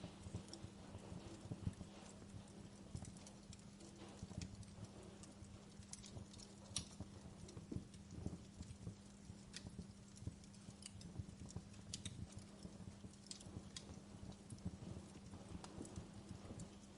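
Logs burning in a fireplace, crackling with frequent irregular sharp pops and snaps over a low rumble, with a faint steady low hum underneath.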